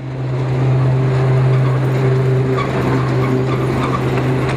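Vintage electric tram running, a loud steady low hum over a rushing mechanical noise.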